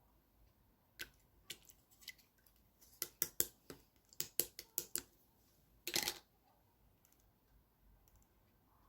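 Pink clear slime being pressed and worked by hand, giving sharp clicking pops that come thick and fast from about three to five seconds in, with a slightly longer crackle about six seconds in.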